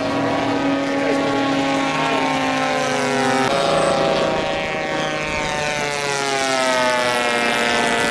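Piston engines of giant-scale radio-controlled model airplanes running in flight, several overlapping engine tones droning steadily. Their pitch slides down from about three seconds in, as a plane passes by.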